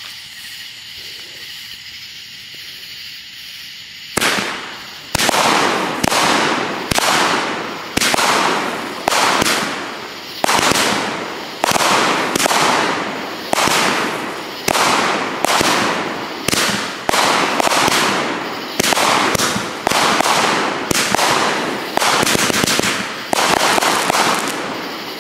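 Aerial fireworks going off in a quick string of about twenty-five bangs, one or two a second, each a sharp report that dies away within a second. The bangs start about four seconds in, after a steady hiss.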